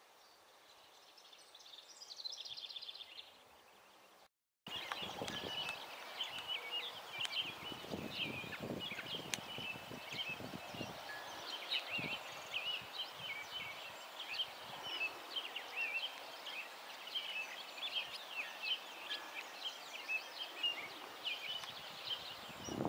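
Small songbirds calling: a short rapid trill about two seconds in, then, after a brief break, a dense, continuous chatter of many quick chirps that runs on without let-up.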